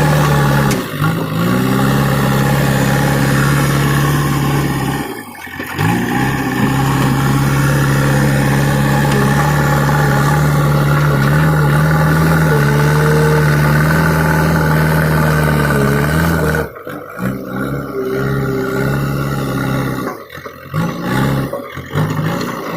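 JCB backhoe loader's diesel engine running steadily, its pitch sagging briefly about a second in and again around five seconds in, then turning uneven and broken up in the last few seconds.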